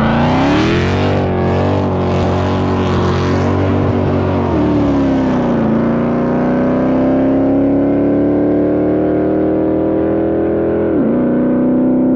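Muscle car engine and exhaust at full throttle. The pitch climbs quickly and holds high, eases back about five seconds in, rises steadily again, then drops sharply near the end as if on a gear change.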